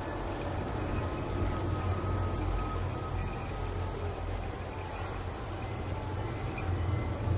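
Steady low rumble of a moving passenger train, heard as from inside the carriage, with a faint steady high-pitched chirring like crickets over it.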